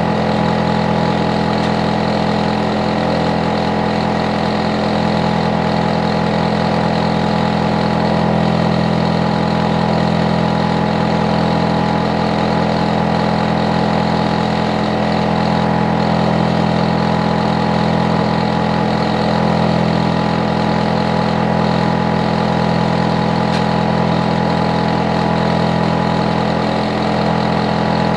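Hitachi air conditioner outdoor unit running with a steady, unchanging hum made of several held tones, deepest and strongest at the low end.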